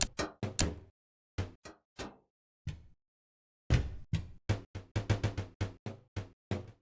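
A series of sharp knocks or taps in uneven clusters: a few quick ones at first, then sparse single ones, a gap of about a second, and from about four seconds in a faster run of roughly three to four a second.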